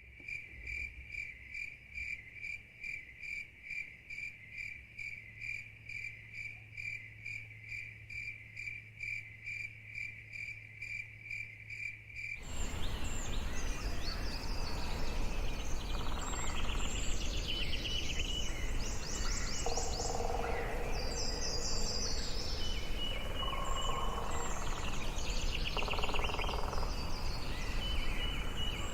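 An insect, cricket-like, chirping in a steady rhythm of about two to three high chirps a second. About twelve seconds in it cuts to an outdoor background hiss with several birds calling, in trills and short whistles.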